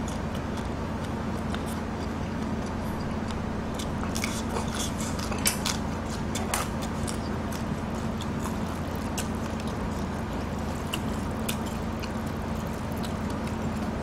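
Close-miked chewing of whole cooked shrimp, heads and shells included, with crisp crunching clicks bunched about four to seven seconds in and a few more later, over a steady low hum.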